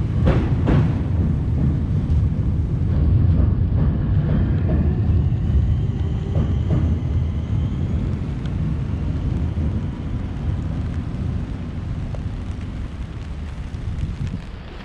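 Rainy city street ambience: traffic noise and wind rumbling on the microphone, with two short knocks right at the start and a faint high whine sliding through the middle. The whole thing slowly grows quieter toward the end.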